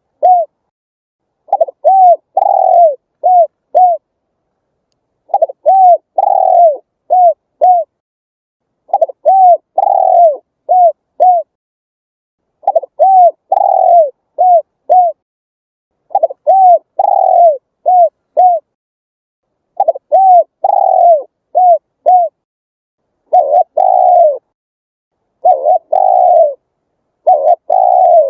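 Spotted dove cooing: a phrase of four or five soft coos, the middle one longest, repeated about every three and a half seconds with clean silence in between.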